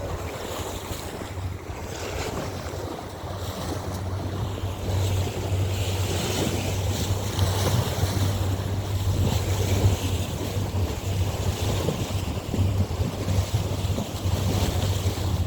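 Small boat under way: a steady low motor hum under water rush and wind buffeting the microphone, a little louder after about five seconds.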